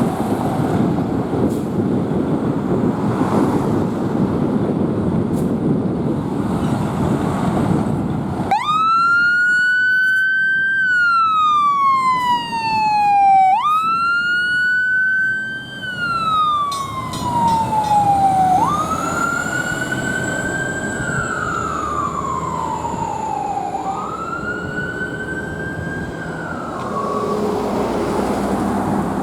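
A 2022 Pierce Velocity fire engine responding: heavy engine and road rumble, then about eight seconds in its siren starts. The siren wails, climbing quickly and falling slowly, over and over about every five seconds.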